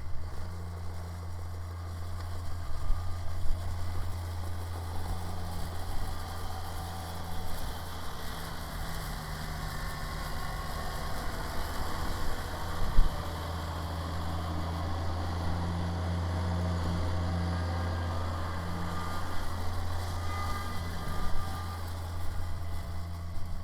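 Kubota BX sub-compact tractor's diesel engine running steadily while working a rear-mounted snow blower, with a brief louder knock about halfway through.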